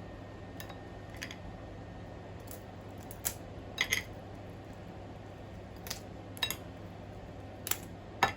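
Crab shell being pried and cracked open with a metal spoon: a scattering of short, sharp clicks and cracks at irregular intervals, the loudest about four seconds in and near the end.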